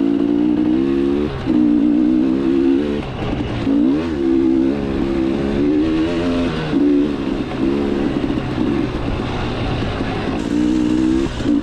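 KTM 300 two-stroke dirt bike engine under throttle on a trail ride. The pitch rises and falls as the throttle is rolled on and off, with several short drops in between.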